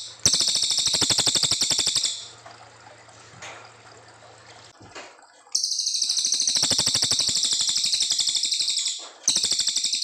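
Cililin coklat songbird singing long, fast, high-pitched trills of rapidly repeated notes. A trill of about two seconds at the start is followed by a pause, then a longer trill of about three and a half seconds, and another begins near the end.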